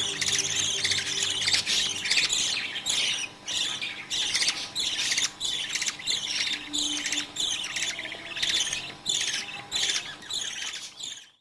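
Budgerigars calling: a rapid run of raspy, squawky chirps, about two a second, that cuts off suddenly near the end.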